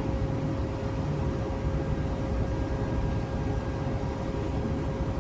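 Ship's machinery running: a steady drone with a heavy low rumble and a constant hum.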